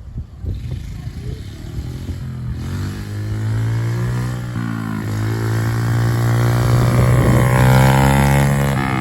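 Honda CRF50 mini bike's small single-cylinder engine running and coming closer. It grows louder from about two and a half seconds in, its pitch rising and falling a little with the throttle.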